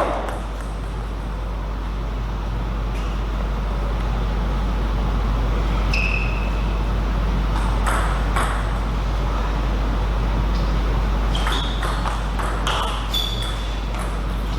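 Table tennis ball clicking sharply off bat and table a few times, a pair in the middle and a quick cluster near the end, over a steady low hum.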